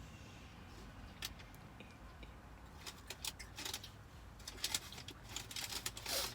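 Close-up crunchy chewing of breaded chicken nuggets: irregular crackling clicks that begin about a second in and grow denser toward the end.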